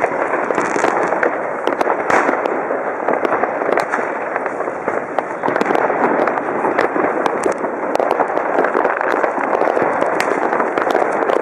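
Many fireworks and firecrackers going off at once: a dense, unbroken crackle with frequent sharp bangs.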